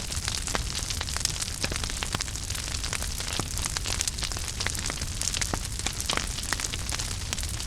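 Fire burning in a fireplace, crackling steadily with many sharp pops over a low steady rumble.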